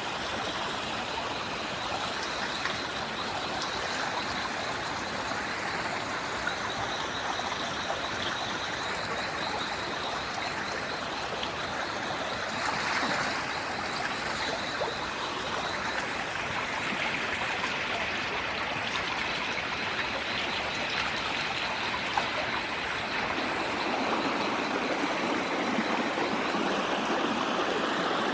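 Steady rush of flowing water, a little louder over the last few seconds.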